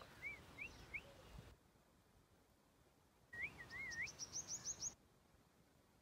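Faint bird calls: three short, wavy whistled chirps, then after a pause a second group of wavy chirps that runs straight into a quick series of about six high, rising notes.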